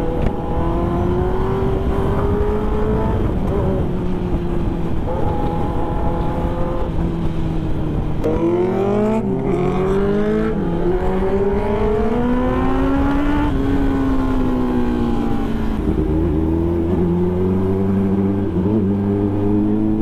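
Kawasaki ZX-10R inline-four sportbike engine through a loud exhaust, revving and riding with its pitch shifting up and down. About halfway through it climbs sharply in pitch, then slowly falls away.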